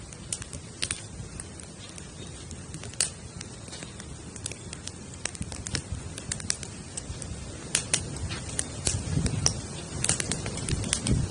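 Teepee-style wood campfire crackling: irregular sharp pops and snaps over a low rumble of burning, the pops coming more often in the second half.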